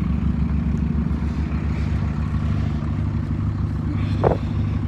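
Cummins 12-valve 5.9-litre inline-six diesel idling steadily with an even low pulsing beat. The engine is high-mileage and rough, and is leaking oil from what the owner suspects is a failing front main seal.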